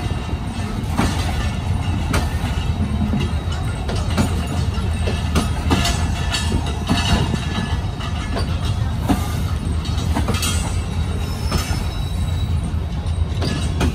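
Passenger coaches of a departing train rolling past: a steady low rumble with frequent short clacks of the wheels over the rails.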